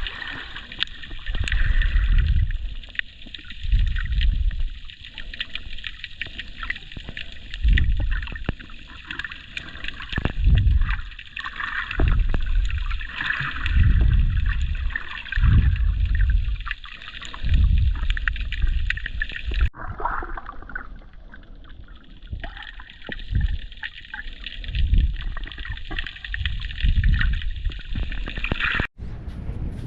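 Calm sea water sloshing and trickling at the shore, with a low surge of wash about every two seconds over a steady hiss. The sound changes abruptly twice, about two-thirds of the way in and near the end.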